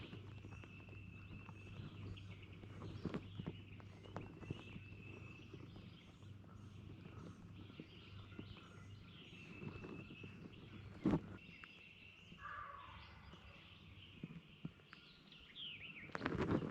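Wild songbirds calling in the woods: a high whistled note about a second long repeats several times among faint high chirps, over a low steady hum. A sharp click comes about eleven seconds in, and loud rustling near the end.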